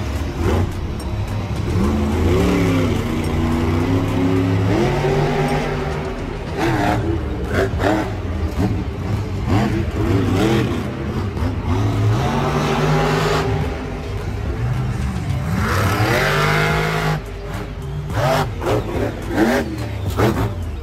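Monster truck engine revving hard, its pitch climbing and falling again several times in repeated surges.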